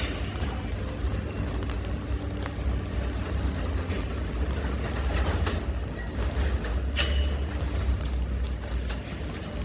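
New York City subway train on the L line running through the station: a steady low rumble with scattered clicks and clanks from wheels on the track, the sharpest about seven seconds in.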